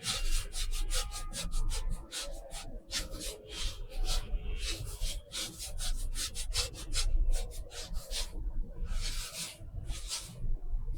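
Paintbrush bristles scratching across textured watercolor paper in quick, repeated short strokes, with a few longer sweeps near the end.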